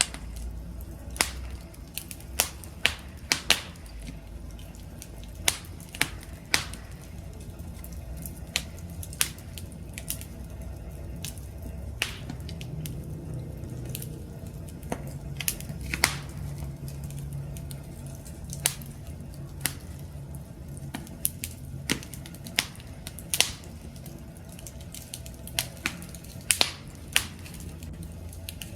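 Wood fire crackling: irregular sharp pops and snaps, a few louder ones clustered together, over a steady low rumble of burning.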